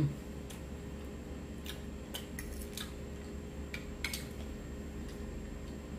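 Close-up chewing of a mouthful of chicken pot pie, with a scattering of small wet mouth clicks over a low steady hum.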